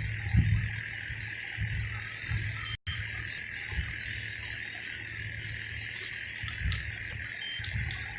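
Steady chorus of insects, a continuous high buzzing hum, with irregular low rumbles of wind or handling on the microphone. The sound drops out for an instant about three seconds in.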